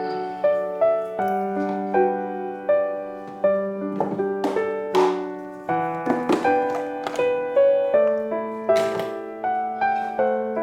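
Background music: a slow, gentle instrumental led by piano-like notes and chords, each note struck and fading, with a few brief swishing noises in between.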